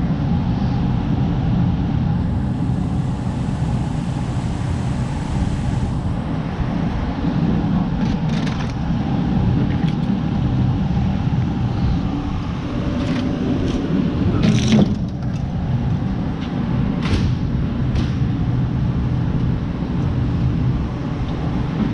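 A vehicle engine running steadily, with a few sharp clicks and knocks over it, the loudest about halfway through.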